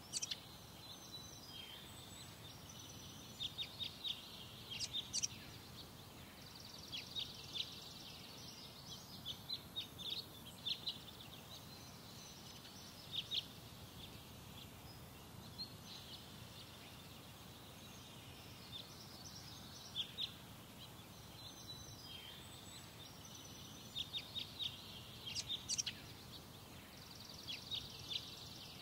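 Birds chirping in short, high calls, twice breaking into a rapid trill, over a faint, low, steady rumble.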